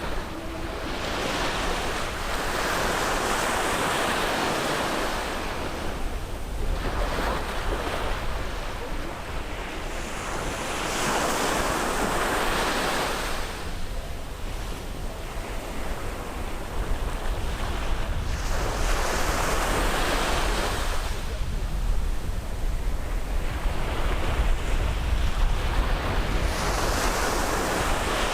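Caribbean sea waves breaking on a beach and washing up the shore, swelling and fading in about five surges a few seconds apart, over a steady low rumble.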